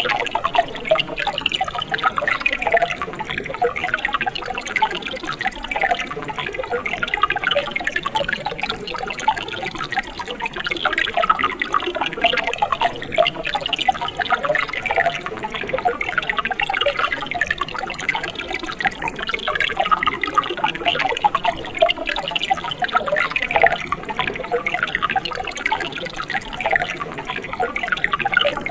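Mountain stream flowing steadily, a continuous gurgling of many small bubbles and splashes.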